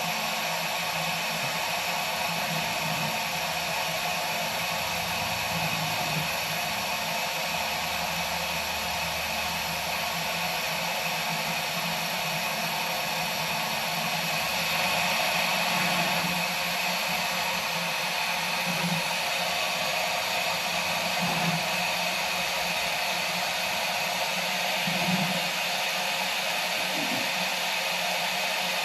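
Garden hose running steadily into an empty car radiator, a constant hiss of flowing water with no gurgling.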